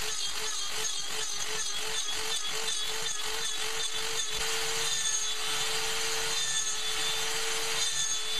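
Small hobby CNC mill's spindle cutting aluminium on a trochoidal toolpath: a steady motor tone under a rasping cutting noise that pulses about four times a second as the cutter sweeps its loops, turning into a smoother, continuous cut about halfway through.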